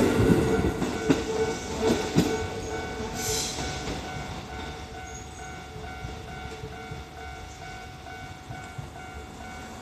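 Kintetsu electric train passing over a level crossing and moving away: wheels clacking over rail joints during the first couple of seconds, then the running noise fading. A level-crossing warning bell keeps ringing throughout.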